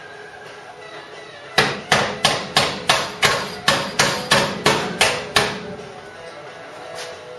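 Hammer knocking a steel car body panel straight from the inside: about a dozen sharp blows, about three a second, starting a second and a half in and stopping about four seconds later.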